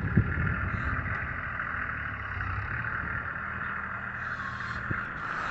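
Tractor engine idling steadily, with a couple of light knocks.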